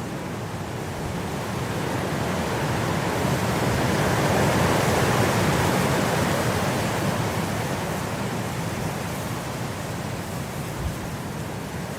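Blizzard wind blowing as a steady rushing noise, rising to a strong gust in the middle and easing back down.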